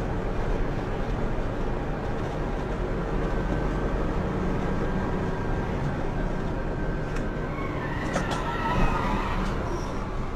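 Steady vehicle road noise and rumble as picked up by a dash cam. About eight seconds in come a short burst of higher wavering tones and a few sharp clicks.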